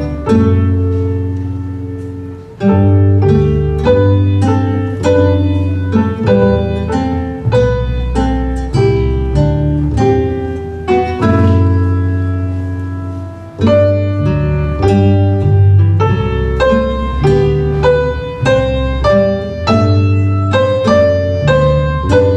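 A small ensemble playing baroque music on plucked-string instruments: quick notes that ring and die away over a walking bass line, with short pauses between phrases twice.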